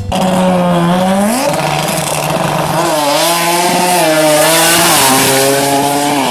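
Car engine revving, its pitch climbing and falling several times over a loud exhaust hiss.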